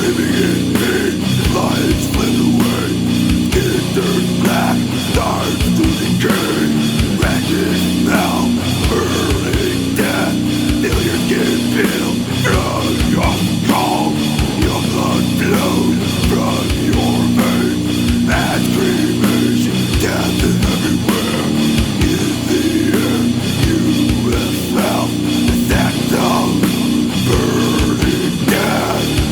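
Death metal band playing an instrumental passage: heavily distorted electric guitars over a pounding drum kit, from a mid-1990s cassette recording.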